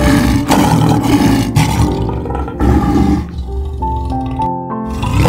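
Male lion roaring, a run of deep, rough calls that stops about three seconds in, with another starting near the end. Background music with held tones plays under it.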